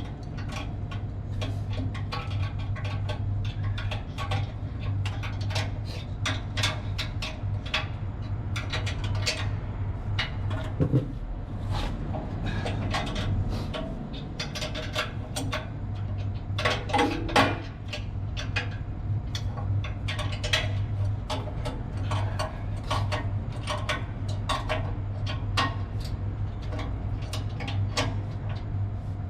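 Metal tool clicks and clinks on the mounting bolts of a 7.5 kW electric motor as it is tightened down after alignment, with a couple of louder knocks about 11 and 17 seconds in. A steady low hum runs underneath.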